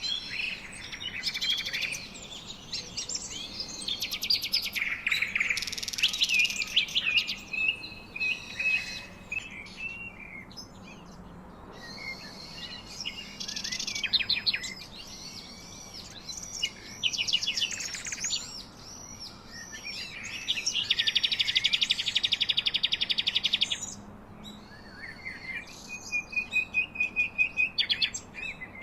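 Several wild birds chirping and singing, their calls overlapping and changing from moment to moment. About two-thirds of the way through, one bird gives a long, fast, buzzy trill, and near the end a short run of evenly spaced whistled notes.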